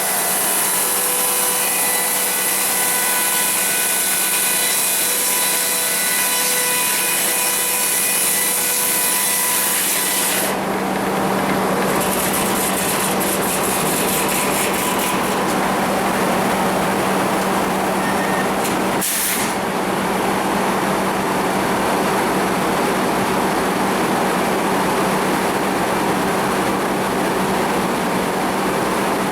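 Sawmill saw cutting through a cedar log, a loud steady sawing noise with high ringing tones. About ten seconds in the high whine drops away, leaving the mill machinery running with a steady hum and one short sharp noise a little later.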